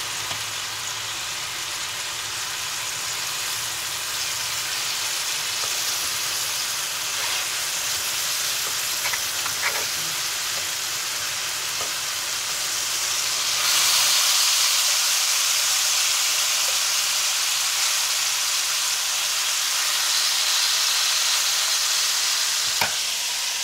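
Chicken pieces sizzling as they fry in hot oil, a steady hiss that grows louder about halfway through. A few light clicks of a fork against the pan come as the pieces are turned.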